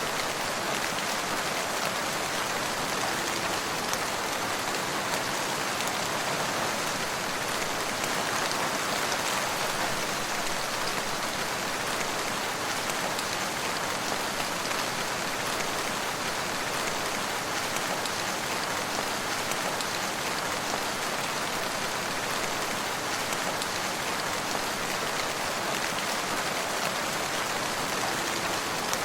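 Steady rain falling: an even hiss of many drops, unchanging throughout.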